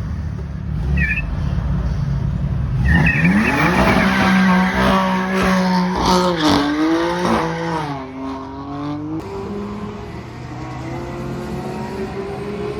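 Drag racing cars accelerating hard down the strip, engine pitch climbing and dropping back several times as they shift up through the gears, then settling to a lower, steadier engine note near the end.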